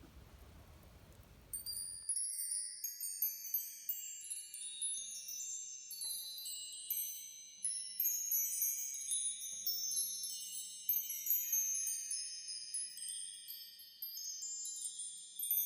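Tinkling chimes: many high bell-like notes struck one after another and ringing on over each other, starting about a second and a half in after faint background hiss.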